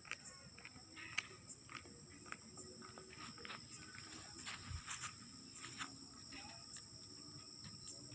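Steady high-pitched insect chirring, with scattered faint ticks and clicks.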